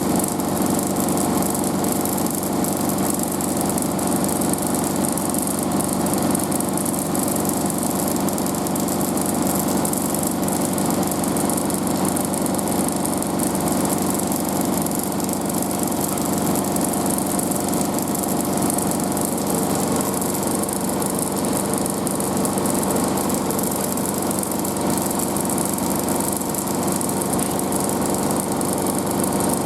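Washing machine spinning its drum at about 1500 rpm in the final spin: a steady motor and drum hum with the side panels vibrating slightly.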